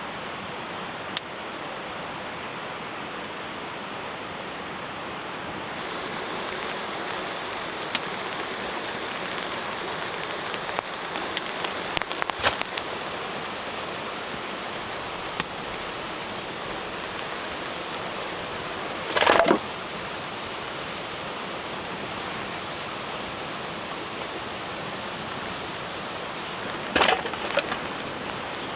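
Steady rushing of a nearby river, with a wood campfire crackling and popping now and then; a louder crack comes about two-thirds of the way through and another near the end.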